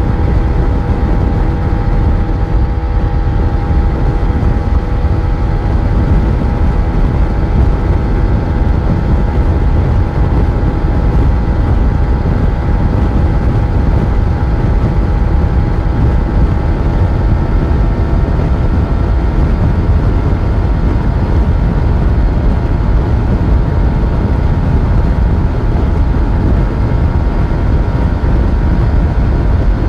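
Yamaha FZ1's inline-four engine running steadily while the motorcycle is ridden at an even pace, under a dense low rumble. The engine note holds nearly constant, with no gear changes or revving.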